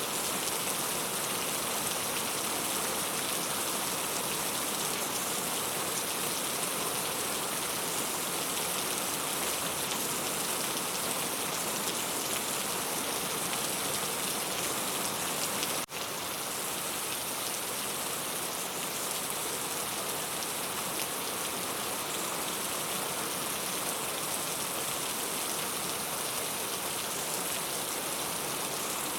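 Steady rain falling, an even hiss of raindrops. About halfway through, the sound drops out for a split second and comes back slightly quieter.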